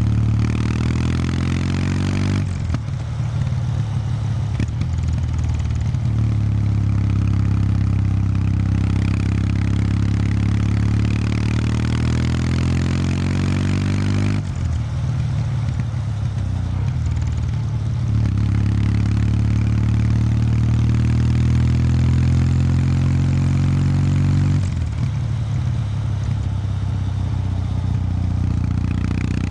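Kawasaki W800 Street's air-cooled parallel-twin engine through its stock exhaust, riding along. The revs climb steadily, then drop sharply about two seconds in, around the middle and again near the end before climbing once more.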